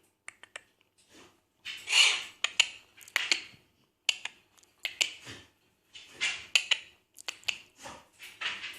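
Quaker parrot chattering and squawking in short, scratchy bursts, with clicks between them.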